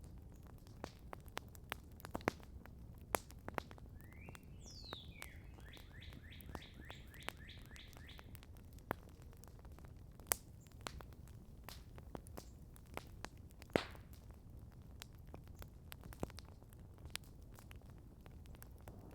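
Campfire crackling: irregular sharp pops and snaps over a low steady rumble, with the loudest pops about three, ten and fourteen seconds in. About four seconds in, a bird sings one short phrase: a quick downward whistle, then a run of about ten rapid repeated notes.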